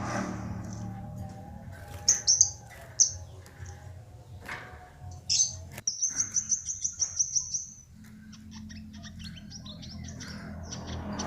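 Small cage birds chirping: sharp single high chirps, then a fast trill of about a dozen high notes between about six and eight seconds in, then faint rapid ticking calls. A low steady hum runs underneath.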